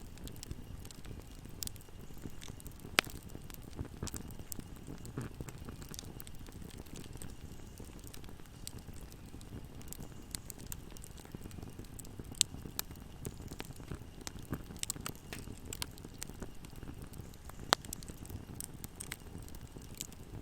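Wood fire burning in a fireplace: a steady low rumble of flames with frequent sharp crackles and pops, three of them louder, near 3, 12 and 18 seconds in.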